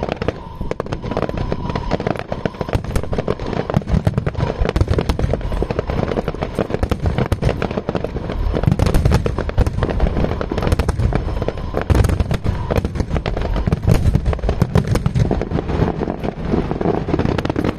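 Aerial fireworks going off in rapid succession: a dense, continuous barrage of sharp cracks and crackling over heavy low booms.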